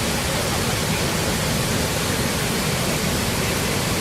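Steady rush of water from Athirappilly Falls, a large waterfall: a loud, even noise without changes or separate events.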